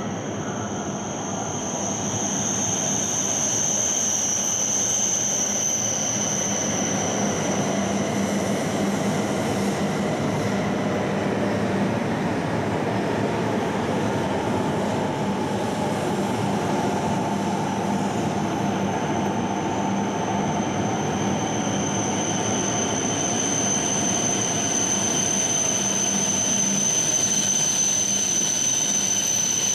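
Shinkansen bullet train running alongside a station platform: a steady rushing rumble, rising over the first couple of seconds, with a thin high whine that fades out partway through and comes back later.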